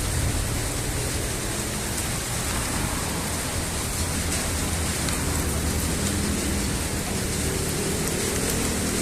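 Heavy rain falling steadily in a downpour. A vehicle's low engine rumble fades out at the start, and another engine hum comes in near the end.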